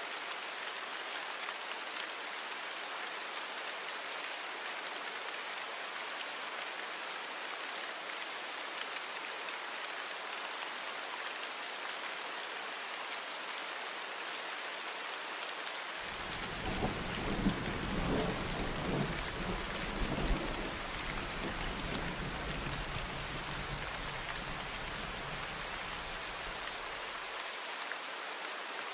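Steady rain falling, with a roll of thunder rumbling for about ten seconds in the second half, swelling loudest soon after it begins.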